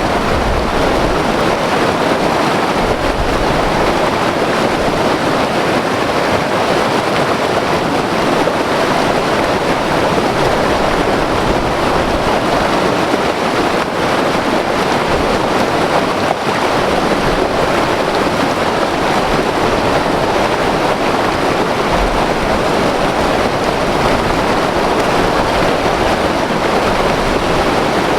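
White water river rushing over rocks: a loud, steady roar of churning water with no breaks.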